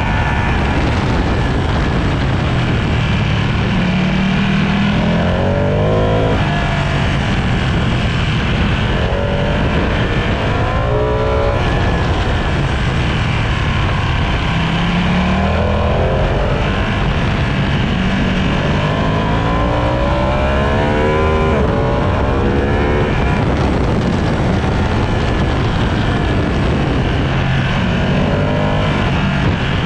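Sportbike engine under hard acceleration on a race circuit. Its pitch climbs again and again and drops back at each gear change, under a steady rush of wind noise.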